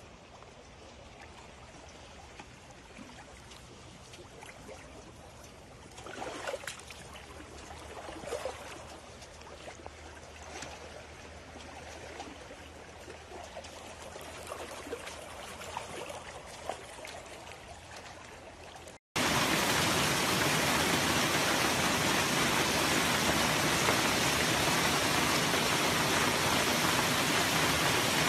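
Heavy rain and running storm water: a steady hiss of rain with scattered drips and splashes, busiest around a quarter of the way in. About two-thirds of the way in the sound breaks off and comes back as a much louder, even rush of water.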